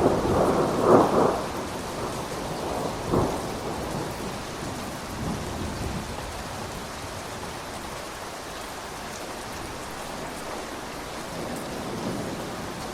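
Steady rain with rumbling thunder, loudest in the first second or so, with another peak about three seconds in, then dying away to the rain alone.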